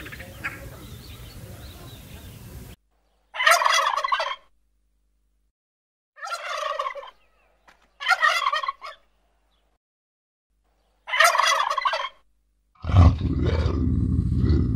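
Domestic turkey toms gobbling: four separate gobbles, each about a second long, with silent gaps between. A steady low rumble starts near the end.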